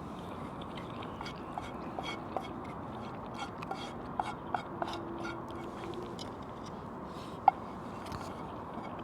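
A person eating from a plate: scattered light clicks and taps of a utensil with some chewing, over a steady background hiss, with one sharper click about seven and a half seconds in.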